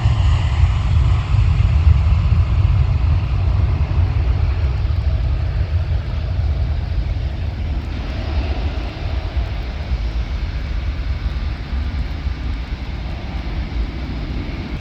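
Jet airliner engines, a deep continuous rumble that slowly fades.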